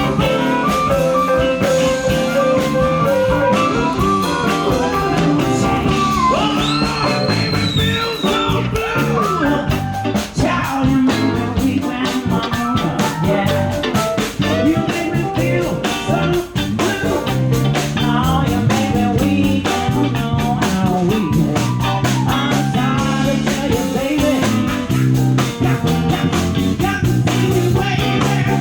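Live blues-rock band playing with electric guitar, bass and drum kit keeping a steady beat, with some singing.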